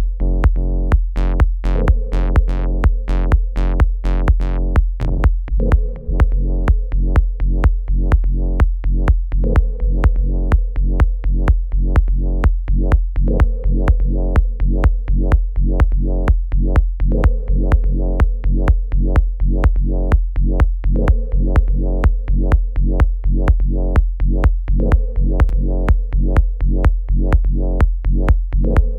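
Electronic dance track, a work in progress, playing back: a steady, evenly spaced drum-machine beat over a sustained deep bass and synth chords. Brighter synth sounds fill the first few seconds, and the mix dips briefly about six seconds in.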